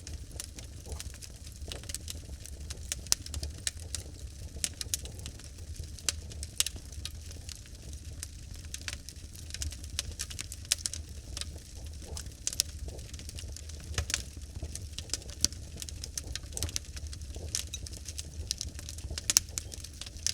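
Log fire burning in a fireplace: irregular sharp crackles and pops from the burning wood over a steady low rumble.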